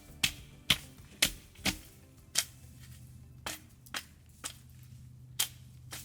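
Campfire crackling: sharp, irregular wood pops, about one or two a second, over a faint low hum.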